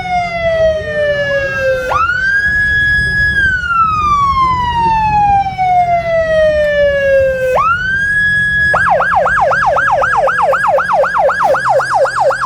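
Emergency vehicle siren sounding loudly: two long wails that each rise quickly, hold, then fall slowly, switching near the end to a fast yelp of about four sweeps a second. A steady low hum runs beneath it.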